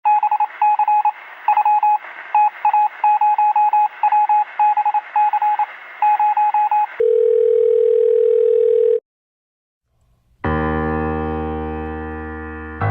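A quick, irregular string of short electronic beeps over a hiss, like telephone dialing, then a steady tone for about two seconds that cuts off. After a second of silence, a sustained keyboard chord starts and slowly fades.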